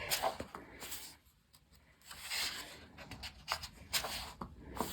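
Paper handling: coloring book pages being turned and rubbed, in a few short swishes with light taps and ticks of the paper and cover.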